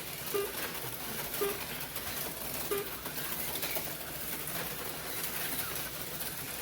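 HO-scale slot cars running laps on the track, a steady whirring hiss, with short low beeps at uneven intervals, three of them in the first three seconds.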